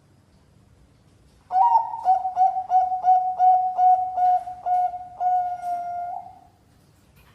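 Zebra dove (perkutut, Bangkok song strain) cooing: a run of about ten short, clipped notes at one pitch, closing in a longer held note. It starts about a second and a half in and lasts about five seconds.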